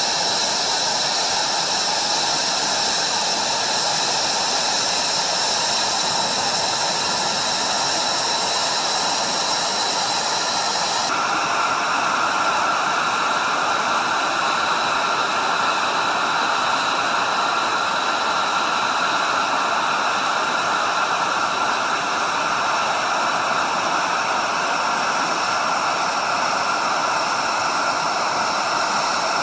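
Jet engine running, a steady loud rushing noise with high whining tones over it; the whine pattern shifts abruptly about eleven seconds in.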